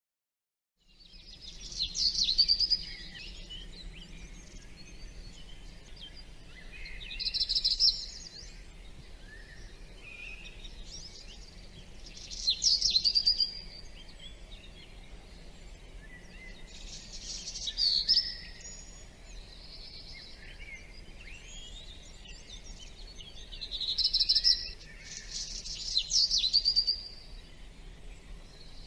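A songbird singing short, loud phrases about every five seconds, with fainter chirps in between, over a faint steady low hum; the birdsong begins about a second in after a moment of silence.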